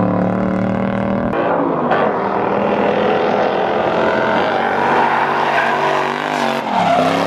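Lexus LS400's 1UZ V8 held at high revs through a drift, with tyres sliding. Near the end the revs drop briefly and climb again.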